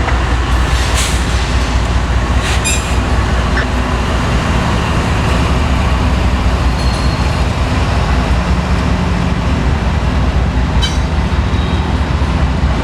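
Train rolling past: a steady, loud rumble of wheels on rail, with a few brief sharp clanks or squeaks scattered through it.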